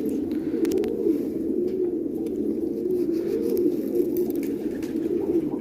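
A flock of domestic pigeons cooing together in a continuous, overlapping chorus of low, wavering coos.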